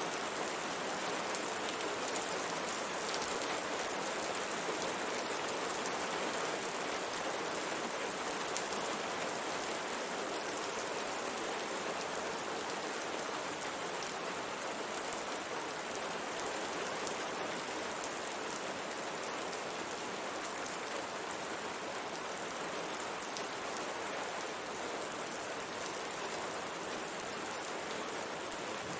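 Steady rain with the patter of drops falling on a window pane.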